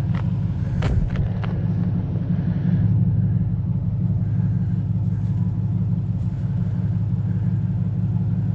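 Truck engine and road noise as a steady low rumble while driving, with a few sharp clicks in the first second and a half.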